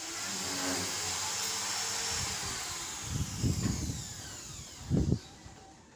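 A small motor running with a high whine, then slowing down, its pitch falling as it winds down. Low rumbles come between about three and four seconds in and again near five seconds.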